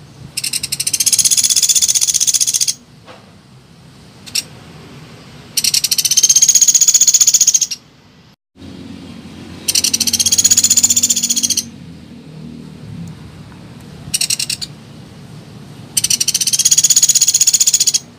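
Pelatuk beras woodpecker calling in rapid, high-pitched rattling trills. There are four trills of about two seconds each, with two short bursts between them.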